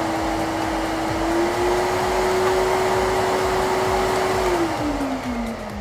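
Miele vacuum cleaner motor running with a steady rush of air and a whine, which steps up slightly about a second and a half in. Near the end the motor is switched off and winds down, its whine falling in pitch as the rush fades.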